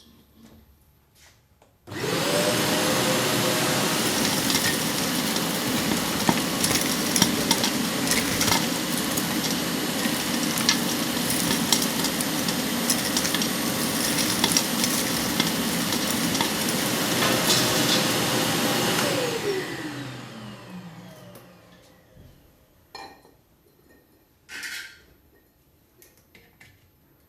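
Kärcher wet-and-dry vacuum cleaner switched on, running steadily with scattered rattles and clicks as ash and debris are drawn in. It is switched off and winds down with a falling whine, followed by a few knocks.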